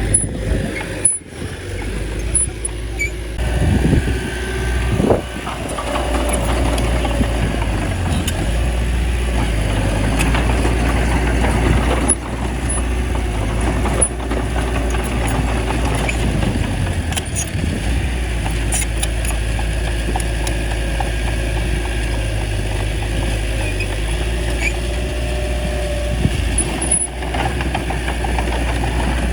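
Small bulldozer's diesel engine running steadily under load, with a few sharp clanks and knocks from the machine as it pushes soil and a brief swell in engine pitch early on.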